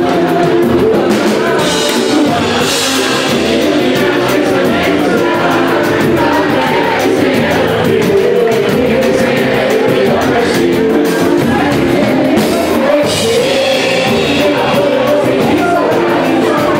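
Live samba band playing with a singer, percussion keeping a fast, even beat under the sung melody.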